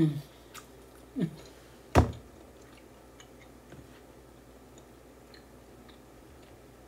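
Someone chewing meat off grilled jerk pork neck bones, with faint wet mouth clicks. A short 'mmm' falling in pitch comes at the start and again about a second in, and a single sharp smack comes about two seconds in.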